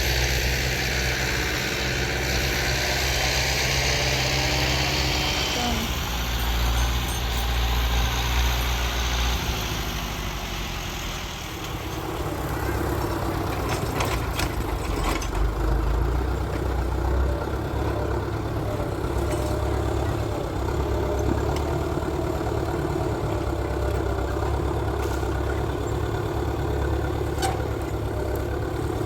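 Tractor engine running steadily, its sound changing briefly about eleven seconds in.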